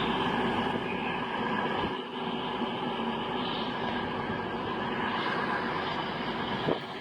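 CrossCountry Voyager diesel-electric multiple unit at the platform, its underfloor diesel engines running with a steady mechanical hum, with a brief dip about two seconds in and a click near the end.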